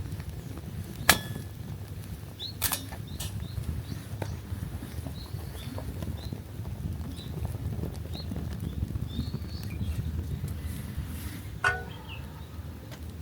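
Small birds chirping now and then in short high notes, over a low steady rumble. A few sharp clicks cut in: one about a second in, one under three seconds in, and one with a brief ring near the end.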